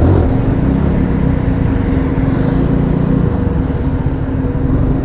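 Yamaha R15 V4 motorcycle cruising at a steady speed on a highway: heavy wind rush on the rider's microphone over a steady engine drone.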